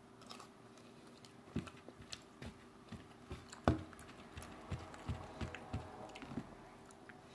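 A man chewing a mouthful of beef pot pie close to the microphone: soft, wet mouth clicks and smacks, about two a second, with one louder smack about halfway through.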